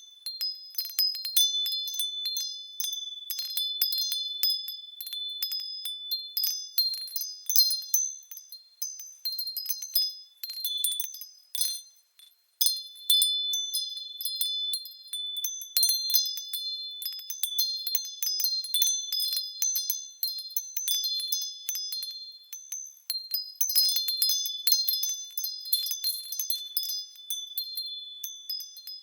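Japanese furin wind chimes tinkling in the breeze: quick, irregular strikes with high, ringing tones, a few pitches overlapping. The ringing stops for a moment about twelve seconds in, then picks up again.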